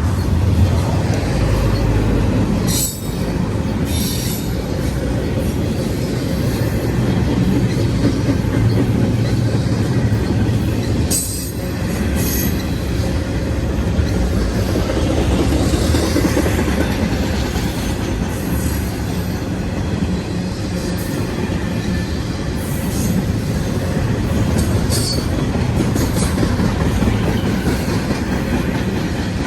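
A BNSF freight train rolling past close by: a steady rumble and clatter of steel wheels on rail, with a few brief high wheel squeals along the way.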